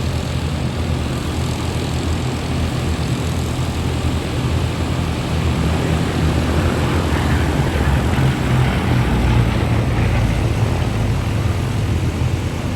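Bristol Blenheim's twin Bristol Mercury radial engines droning as it flies past, growing louder to a peak about nine to ten seconds in, then easing slightly.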